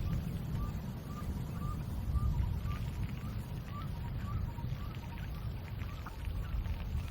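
Wind rumbling on the microphone, with an animal calling a short rising chirp about twice a second.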